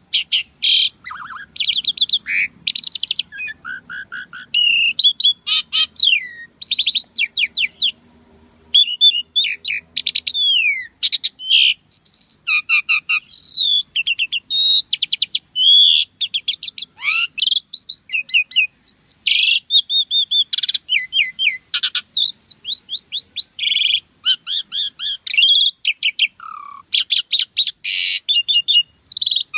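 Asian pied starling (jalak suren) singing at full tilt: a fast, unbroken string of varied whistles, rising and falling slurs and rapid chattering phrases, each lasting well under a second with only short breaks between them.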